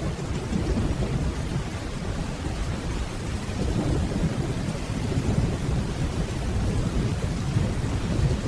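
Steady rainfall under a continuous low rumble of distant thunder, with no sharp cracks.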